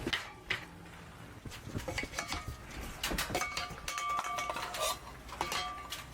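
Dishes and metal utensils clinking and knocking, a run of sharp clicks, some followed by short ringing tones from about two seconds in.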